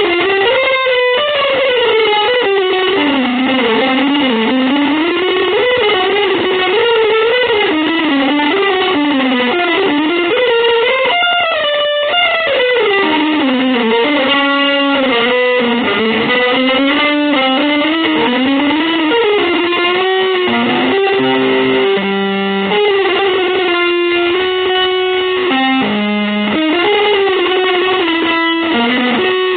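Electric guitar playing a single winding melodic line that slides up and down, with a run of quick notes about halfway through and longer held notes near the end.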